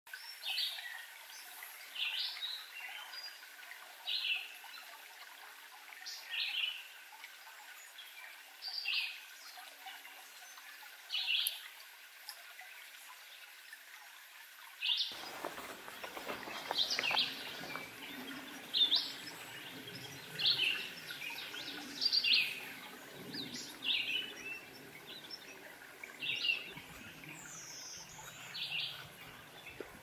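Songbirds singing in woodland: a short song phrase repeated about every two seconds, with more songs overlapping from about halfway through.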